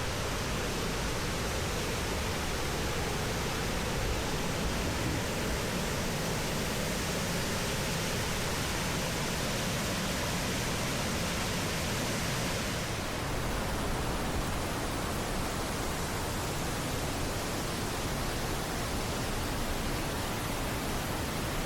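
Steady rushing of whitewater at Blue Hole Falls, a continuous even hiss of falling water that shifts slightly in tone about two-thirds of the way through.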